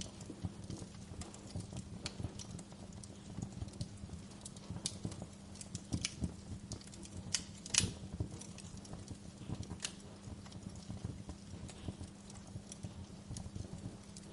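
Wood fire in a fireplace crackling, with irregular sharp pops and snaps, one louder pop about halfway through, over a steady low hum.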